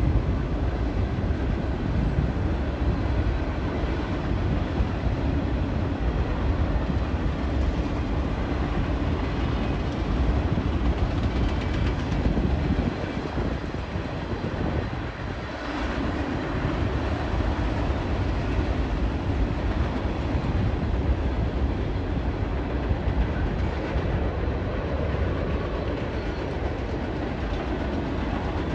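Union Pacific manifest freight train rolling past: a steady rumble of the cars' steel wheels on the rails, dipping briefly about halfway through.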